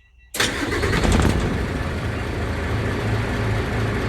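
Truck engine starting on a 24-volt jump from two 12-volt batteries in series: it catches suddenly a moment in, revs briefly, then settles to a steady idle with a low pulsing hum.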